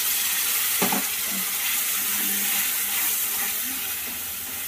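Wet masala paste sizzling as it frys in hot oil in a steel kadai, a steady hiss, with a single sharp knock about a second in.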